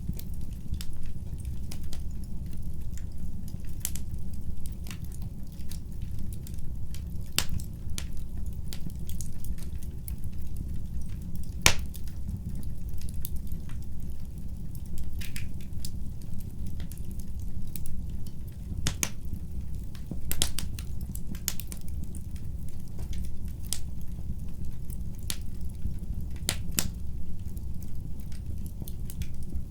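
Wood burning in a fireplace, crackling with irregular sharp pops over a steady low rumble. One pop about twelve seconds in stands out as the loudest.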